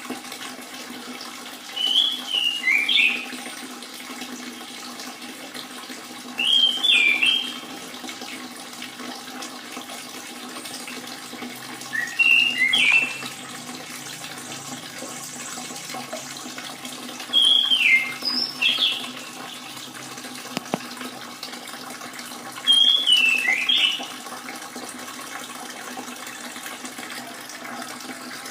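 Orange-headed thrush giving a short call with a twisting, falling pitch about every five to six seconds, six times, over a steady trickle of running water.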